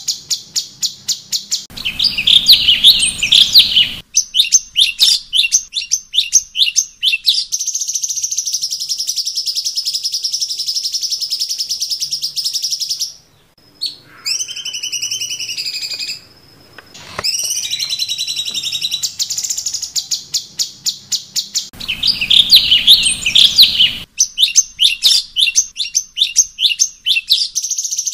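Cucak cungkok singing: fast, repeated chattering notes and rapid trills. About halfway through the song pauses for a few seconds, broken by a few clear falling whistles, before the trilling resumes.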